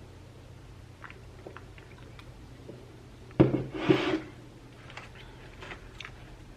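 Quiet eating sounds from a Subway sandwich being eaten: scattered small clicks and mouth noises, with one louder noisy rustle lasting about a second, a little past halfway.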